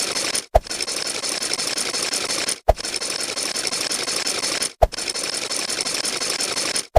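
Rapid mechanical ratcheting clicks played as a looped sound effect. The loop breaks off briefly and restarts with a thump about every two seconds.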